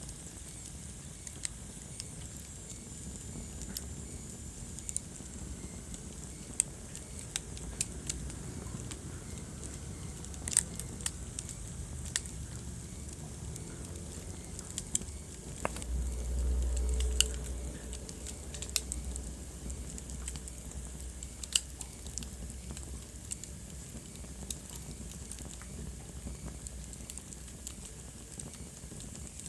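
Wood fire burning in a fireplace, crackling with scattered sharp pops over a steady low rumble. A little past halfway a low rushing swell rises for a second or two, as the flames flare.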